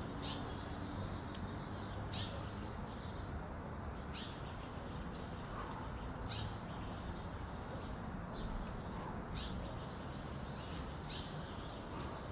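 A bird chirping: short, high, downward-sweeping chirps repeated about every two seconds over steady outdoor background noise.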